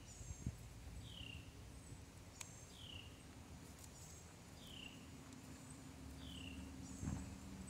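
Faint bird calling: a short downward-slurred note repeated four times, about every second and a half to two seconds, with fainter high chirps in between.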